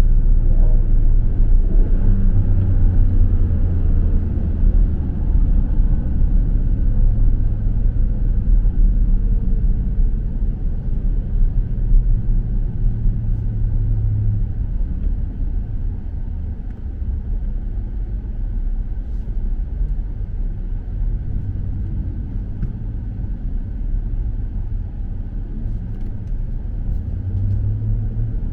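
Car cruising on a highway, heard from inside the cabin: a steady low rumble of tyres and engine, easing slightly after the middle.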